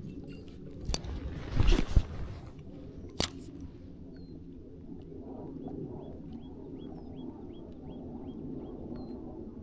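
A few sharp knocks and rustles of handling noise in the first three seconds. Then a faint run of short, high, falling chirps, about three a second, from a small bird, over a steady low background hum.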